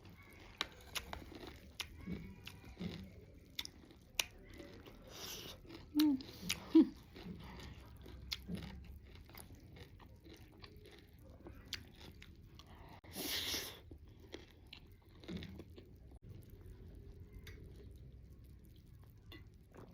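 Close-up chewing and crunching of chatpate, a spicy puffed-rice snack, with scattered small crunchy clicks and mouth noises. One short breathy hiss comes about 13 seconds in.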